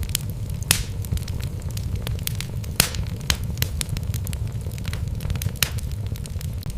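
Wood fire burning in a fireplace: logs crackling and popping in irregular sharp snaps over a steady low rumble of the flames, with two louder pops, a little under a second in and near three seconds in.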